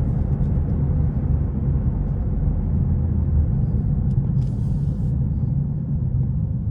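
Steady low in-cabin rumble of road and engine noise from a BMW G80 M3's twin-turbo straight-six cruising with its IRL single-pipe exhaust valve closed. It is plain cabin noise with no exhaust note and no drone.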